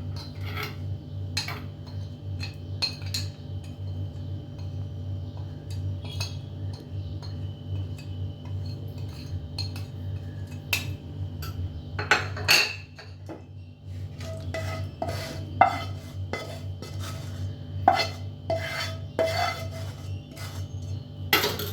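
A spoon tapping and clinking against a bowl as spices are tipped one at a time into strained yogurt. Some taps in the second half ring briefly. A steady low hum runs underneath.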